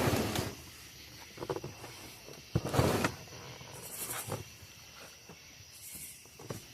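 Cardboard box and packaging being handled and moved: scraping and rustling, with a sharp knock about two and a half seconds in.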